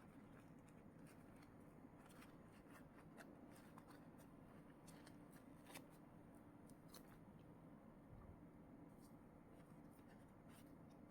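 Faint, scattered crackles of plastic packaging being handled, over a low steady background hum.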